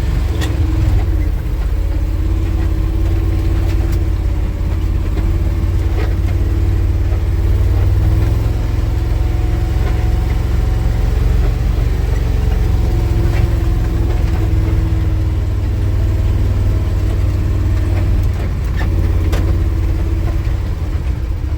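Engine of a 1967 International 1200 truck running steadily, heard from inside the cab, its pitch shifting a little up and down as it moves, with a few sharp clicks.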